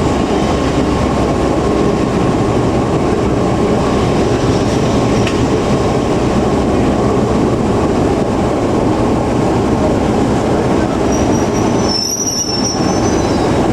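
Heritage passenger train running on the line behind Class 14 diesel-hydraulic D9551, heard from on board: a steady, loud rumble of wheels and running gear. High-pitched wheel squeal joins in near the end, typical of the wheels flanging round a curve.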